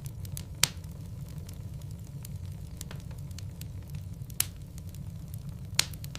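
Wood logs burning in a fireplace: a steady low rumble of flame with frequent crackles and three louder pops, about half a second in, past four seconds and near the end.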